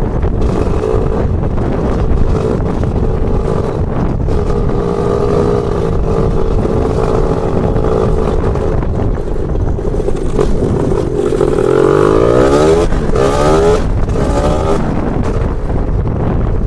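Lambretta scooter with a BFA 325-type two-stroke engine being ridden, the engine running steadily, then its revs rising and falling a few times about two-thirds of the way in.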